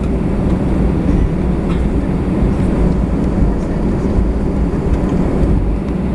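Cabin noise of an Airbus A320 rolling on the ground with its engines running: a steady, loud low rumble from the wheels and engines, with a few light knocks as the gear passes over pavement joints.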